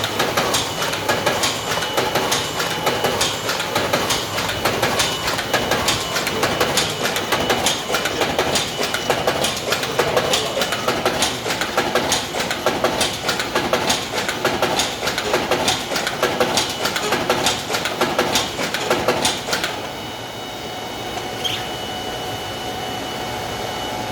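Morgana DigiFold Pro-XL creaser-folder running, with a rapid, continuous clatter as sheets are fed through, creased and folded. About 20 seconds in the clatter stops and a quieter steady machine hum remains.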